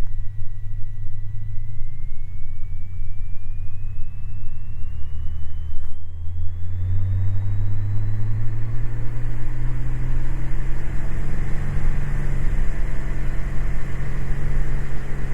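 Cessna 206 Stationair's six-cylinder piston engine and propeller coming up to takeoff power on the takeoff roll. The engine note rises in pitch from about six seconds in, then holds steady at full power. A faint thin whine climbs slowly in pitch underneath.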